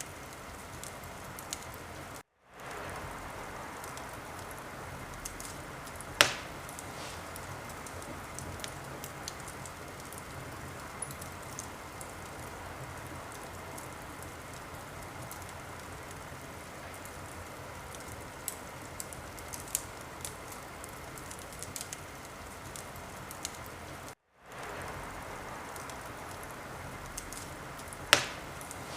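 Wood fire burning in a fireplace: a steady hiss with many small crackles and two loud pops, about six seconds in and near the end. The sound cuts out briefly twice, about two and twenty-four seconds in, and fades back up each time.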